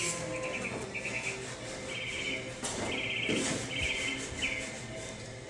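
Clay bar squeaking against car paint in a run of short back-and-forth rubbing strokes, about six of them, as it lifts overspray off the hood.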